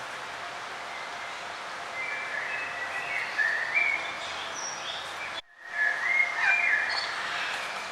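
Songbirds singing whistled, gliding phrases over a steady background hiss of outdoor ambience. The sound drops out for a split second a little past the middle.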